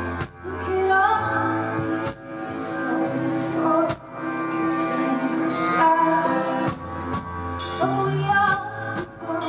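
Live pop band music, a stretch of the song with no sung lyrics.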